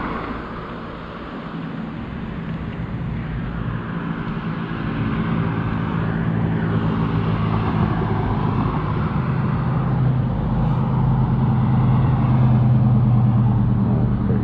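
Road traffic: a motor vehicle's steady low engine hum that grows louder over the stretch, over a hiss of wind and road noise.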